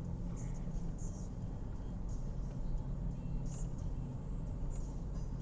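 Car driving steadily, a continuous low engine and road hum heard from inside the cabin.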